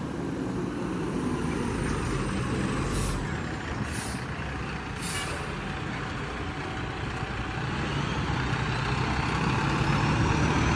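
Fire truck engine running, with three short air-brake hisses about a second apart midway through. A faint rising whine comes in near the end as the sound grows louder.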